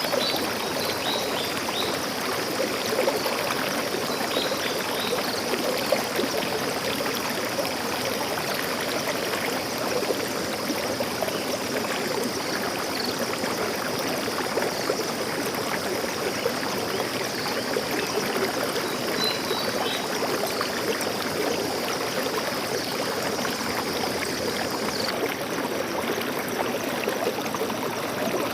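Stream water flowing steadily over rocks, a continuous rushing and trickling. A few faint, brief bird chirps come through near the start and again about two-thirds of the way in, and a thin high hiss in the background stops abruptly near the end.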